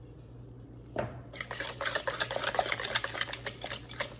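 A whisk stirring freshly strained yogurt in a bowl. After a quiet first second there is a knock, then a fast run of clicks and scrapes against the bowl.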